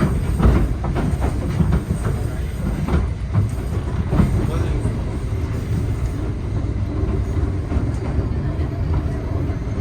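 Electric train running on rails: a steady low rumble, with wheels clicking and knocking over rail joints during the first few seconds.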